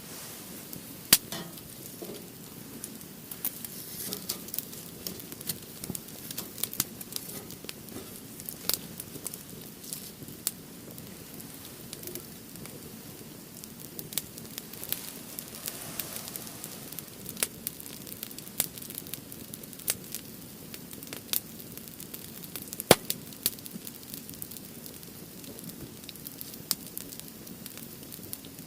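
Split firewood burning in an open fire stand, crackling steadily with scattered sharp pops; two of the pops, about a second in and near the end, are much louder than the rest.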